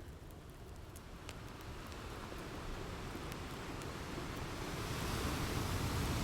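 Ocean surf washing in and swelling louder over the last couple of seconds, with a few faint crackles from a wood fire.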